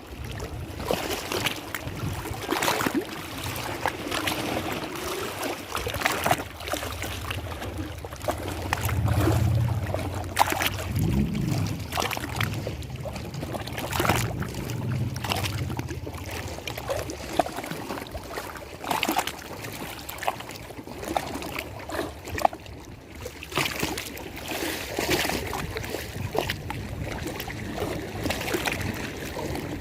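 Lake water lapping and splashing in many quick, irregular splashes, with a low hum for several seconds in the middle.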